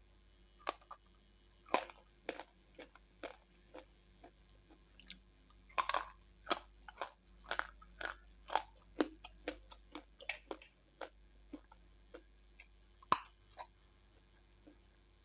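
Slate pencil being bitten and chewed: a run of sharp, irregular crunches, coming thickest in the middle.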